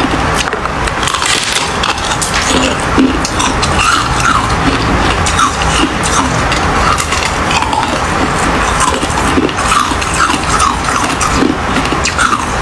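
Ice being chewed close to the microphone: a steady run of sharp, irregular crunches and cracks.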